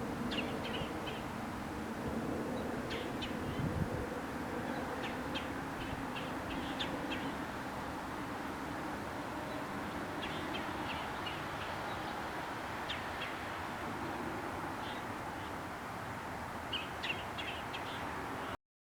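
Birds calling outdoors in quick clusters of short, high notes every few seconds over a steady background hiss; all sound cuts off abruptly near the end.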